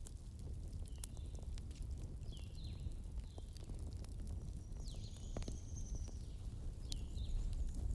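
Wood campfire burning with a steady low rumble and scattered sharp crackles and pops. Short, high falling chirps sound on and off in the background.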